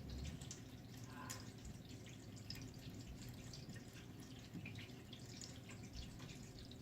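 Faint, irregular dripping and trickling of water in toilet plumbing, many small drips scattered over a low steady hum.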